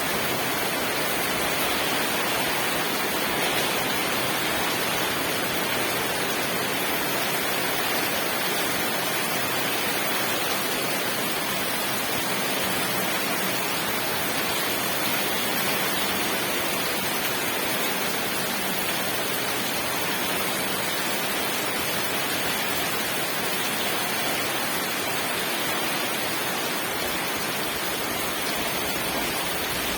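Steady rain falling, a dense, even hiss with no distinct drops or thunder.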